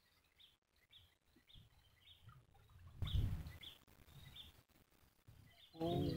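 A small bird repeating a short high chirp about twice a second over faint outdoor background. About halfway through, a low rumbling thump, the loudest sound, fades over about a second.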